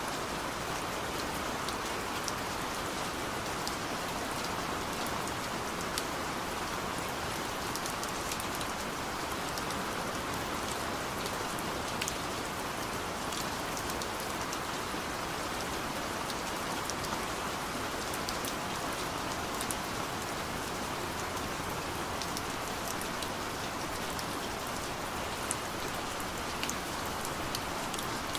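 Steady rain falling on a car, heard from inside the cabin: an even hiss with scattered sharp ticks of single drops hitting the body and glass.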